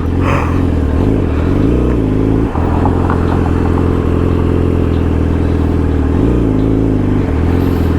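Sportbike engine running steadily, its pitch dipping and coming back up twice, about a second in and again near the end.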